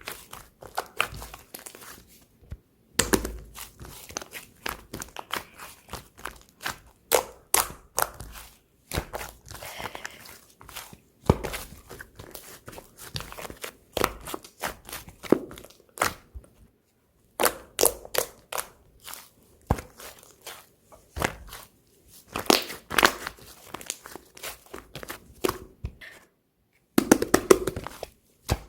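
Hands squishing, pressing and stretching slime, making dense crackling and popping clicks in bursts with short pauses between.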